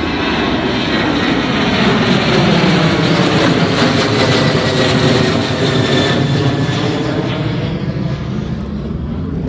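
Boeing 737 jet airliner taking off past the runway side: loud jet engine noise that swells to a peak a few seconds in and then slowly fades, with a sweeping, phasing quality as it passes.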